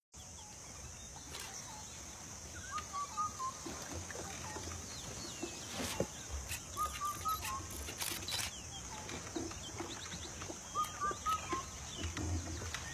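A bird repeating a short call of four or five quick notes three times, about four seconds apart, over a steady high hiss and a few faint clicks.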